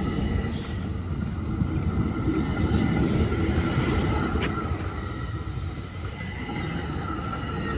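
Commuter train rolling past on the rails: a steady low rumble of wheels and cars, with a thin, steady high squeal over it.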